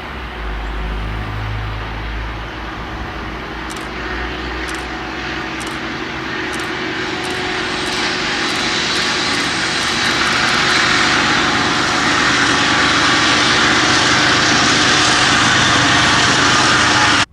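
Diesel locomotives of a freight container train running past, a steady engine drone with rail noise that grows louder, then cuts off suddenly at the end.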